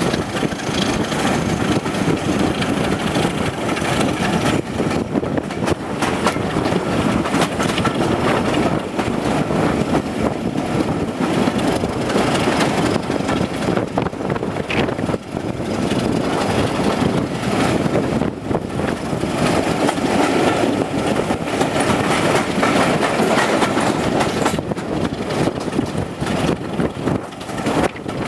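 Diesel-hauled passenger train running along the line, heard from an open coach window: steady rumble of the coach wheels on the rails and rushing air, with the Class 26 diesel-electric locomotive working up front.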